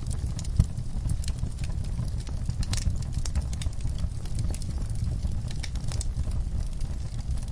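Wood fire burning in a fireplace: a steady low rumble of flames with irregular sharp crackles and pops throughout, one louder pop about half a second in.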